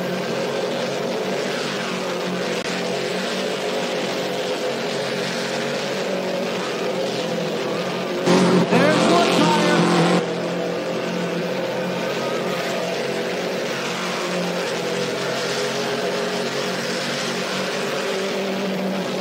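Burnout car's engine held at high revs while its rear tyres spin in a burnout, a steady, unbroken drone. About eight seconds in, for two seconds, it gets louder and its pitch sweeps upward, then drops back.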